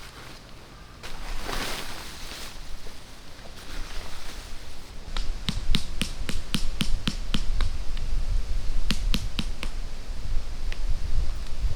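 A short rustle, then a quick run of sharp taps or clicks, about four a second, with a few more spaced out near the end, over a steady low rumble.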